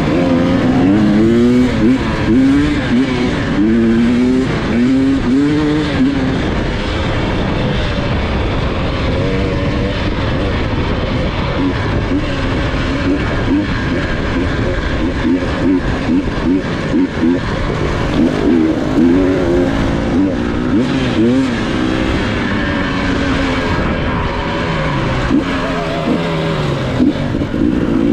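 Dirt bike engine revving up and down over and over as the throttle is opened and closed, its pitch rising and falling every second or two, over a constant rough rushing noise.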